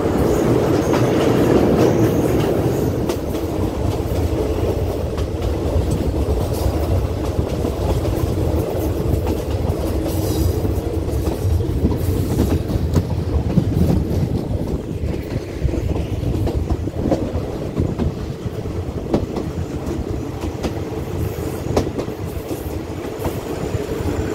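Passenger train running at speed, heard from an open coach window: a continuous rumble with wheels clicking over the rail joints. It is louder for the first few seconds while the coach crosses a steel girder bridge.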